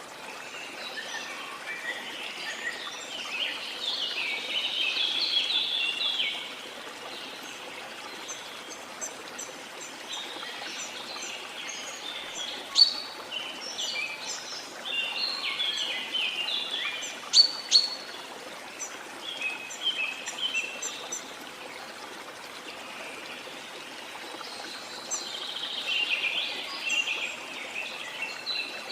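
Birds singing in spells of quick chirps and trills over a steady rush of running water, with a few sharp, loud high calls standing out near the middle.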